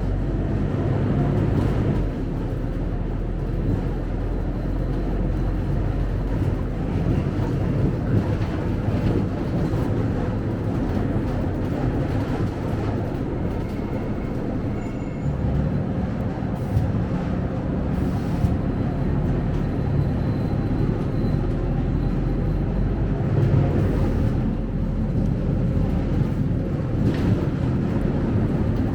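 Scania K270UB city bus's diesel engine running with a steady low rumble.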